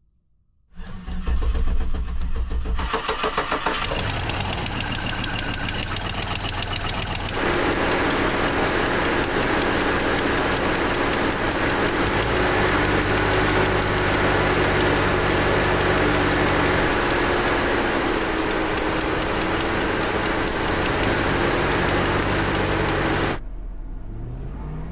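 2007 Cadillac Escalade's 6.2-litre V8 cranked and started, then running steadily at idle. The truck has a dead miss on the right bank, cylinders 2, 4, 6 and 8, traced to a dropped ground circuit.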